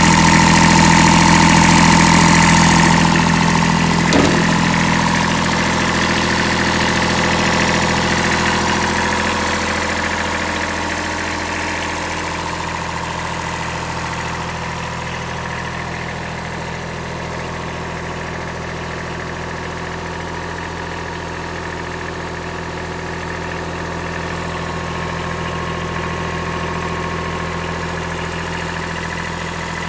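Kubota B7001 compact tractor's three-cylinder diesel engine running steadily. It is louder and brighter for the first few seconds, then eases to a quieter, even idle. There is a brief sharp sound about four seconds in.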